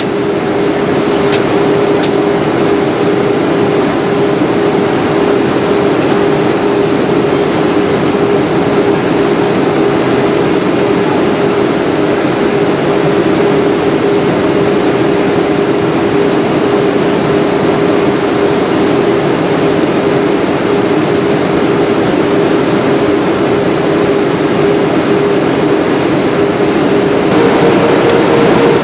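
Cabin noise of a Boeing 737 airliner on approach: a steady jet-engine drone with a constant hum, whose pitch steps up slightly near the end as engine power changes.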